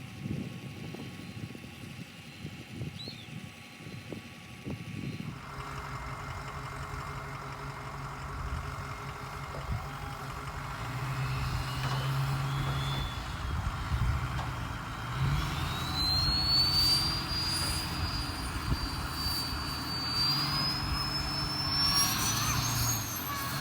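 Ford F-250's 6.0 Powerstroke turbodiesel V8 running as the truck is driven, coming in about five seconds in and growing louder. Over the last several seconds a high whistle climbs in pitch.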